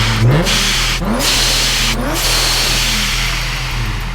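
Car engine revved in several quick blips, each a rising sweep, with a loud rushing hiss that cuts in and out between them.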